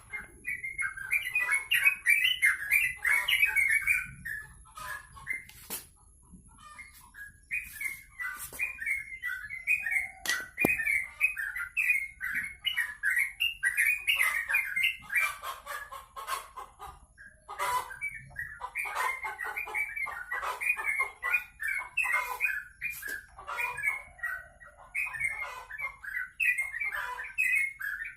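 A caged songbird singing actively in long bouts of rapid, chattering warbles, with a couple of short pauses.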